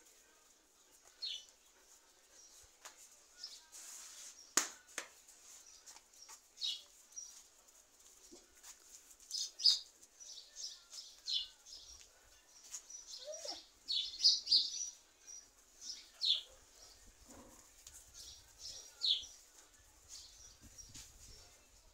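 Small birds chirping: short, high chirps off and on at irregular intervals, with a few sharp clicks in between.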